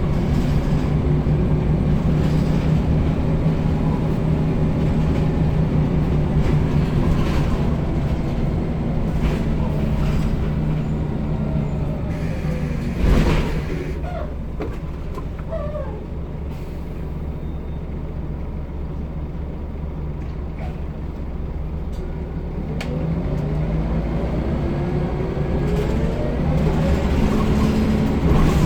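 Scania L94UB single-decker bus engine running under way, its pitch falling as the bus slows, with a short loud hiss of air about halfway through. It then runs quieter at low revs before the revs climb again near the end as the bus pulls away.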